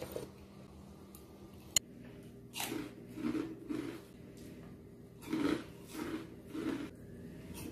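Crunchy chips being bitten and chewed in a run of short, crisp crunches, in two spells with a pause between. A single sharp click comes a little under two seconds in.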